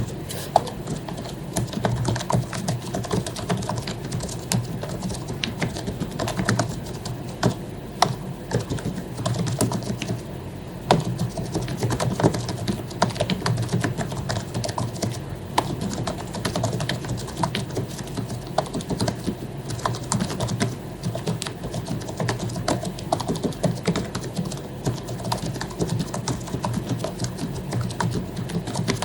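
Continuous typing on an HP membrane keyboard: a dense stream of soft key clicks, with a brief pause about ten seconds in.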